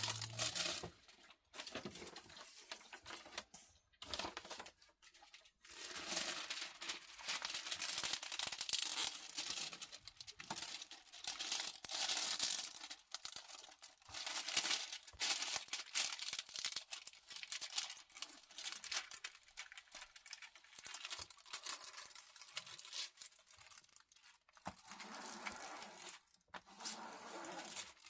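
Crinkling and rustling of a diamond painting canvas and its plastic cover film being handled, in irregular stretches with a few short pauses.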